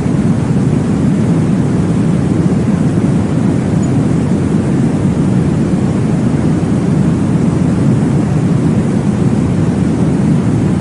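Steady low whooshing noise from a baby-sleep white-noise track, even and unbroken, with most of its weight in the low rumble and little hiss.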